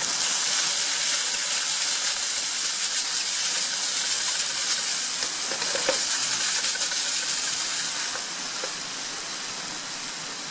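Bacon sizzling as it fries, a steady hiss that eases slightly near the end.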